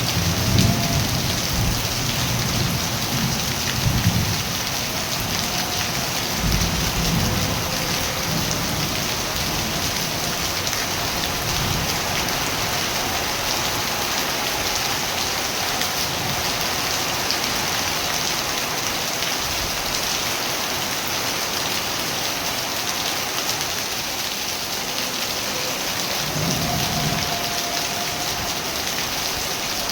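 Steady heavy rain falling, with low rumbles of distant thunder near the start, twice more in the first several seconds, and again near the end.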